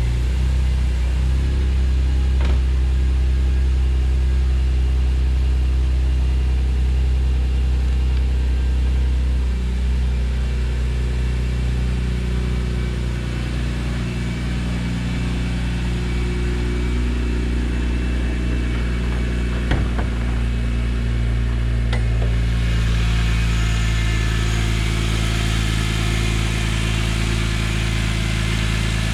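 2006 BMW Z4 M's S54 3.2-litre inline-six idling steadily just after a cold start, its idle easing slightly lower partway through. About two-thirds of the way in, the sound turns brighter, with more hiss on top.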